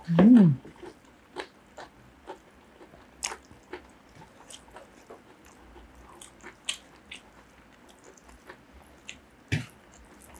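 Close-miked eating: soft wet chewing, lip smacks and mouth clicks as rice and curry are eaten by hand. A short falling hum of a voice comes right at the start.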